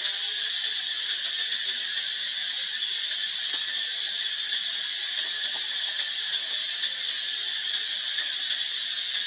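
A steady high-pitched hiss that does not change, with a few faint animal calls from the monkeys.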